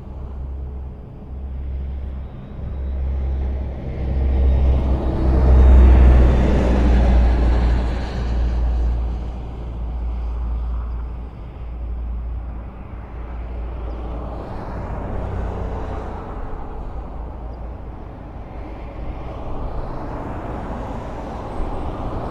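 Highway traffic passing: a steady rumble of engines and tyres that swells as vehicles go by, loudest a few seconds in.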